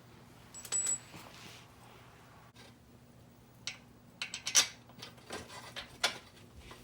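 Scattered metallic clinks and knocks of hand tools and exhaust hardware being handled, the loudest a short cluster about four and a half seconds in, over a faint steady hum.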